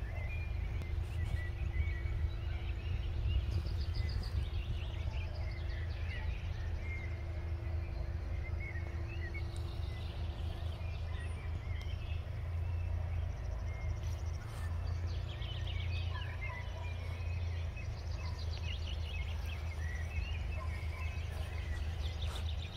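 Songbirds chirping and singing in short scattered phrases over a steady low rumble, with a faint steady hum that stops about halfway through.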